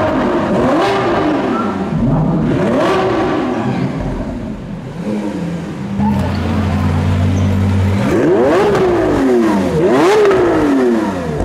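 Lamborghini supercar engine revved in short blips, its pitch sweeping up and falling back about four times, with a steady idle in the middle.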